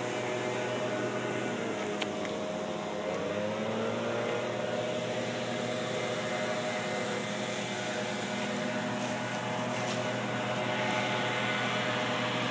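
A steady mechanical hum with several held tones. A few seconds in, some of the tones briefly curve up and down in pitch.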